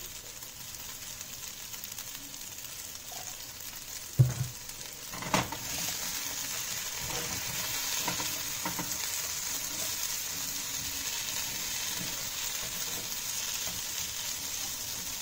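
Masala-coated potatoes and crushed garlic frying in oil in a pan, a steady sizzle. There is a knock about four seconds in and a clink a second later, after which the sizzle grows louder as the freshly added tablespoon of oil heats.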